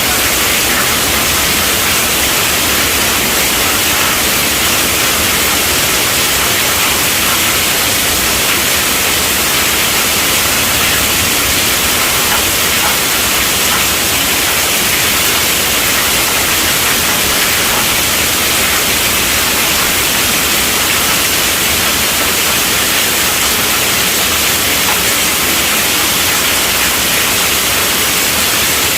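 Steady heavy rainfall, an even, unbroken hiss with no separate drops standing out.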